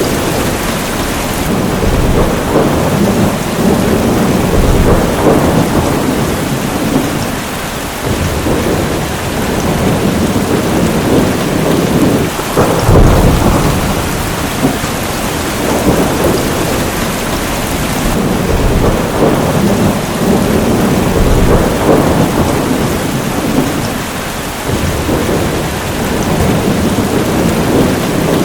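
Heavy rain falling steadily with thunder rumbling again and again underneath, the rumbles swelling and fading every few seconds, the loudest about halfway through.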